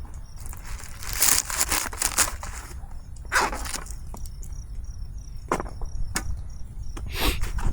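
Handling of camp cooking gear and ingredients: a few sharp knocks and bursts of rustling, with crickets chirping steadily in the background.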